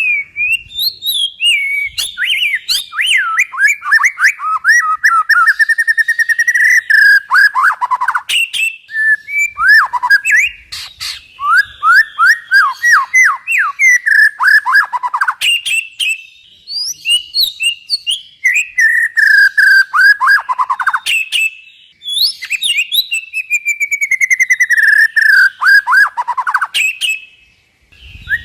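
Songbird song: loud phrases of quick notes that slide down from high to lower pitch, strung into runs of a few seconds with short pauses between them.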